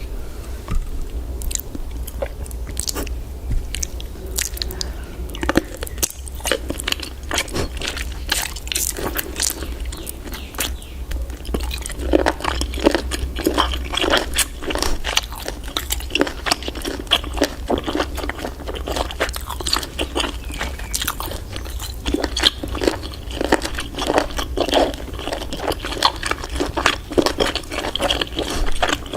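A person chewing and biting into giant octopus: a continuous run of short wet clicks and smacks, busier from about twelve seconds in, over a steady low hum.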